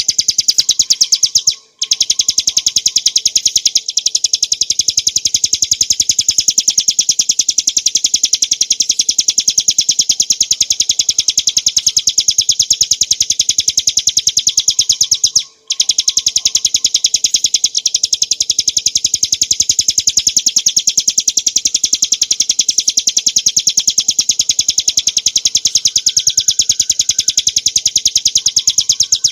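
Ciblek gunung (a prinia) singing a fast, unbroken rattling trill of rapidly repeated high notes, the 'ngebren' song used as masteran for cage birds. It breaks off for a moment twice, about two seconds in and about halfway through.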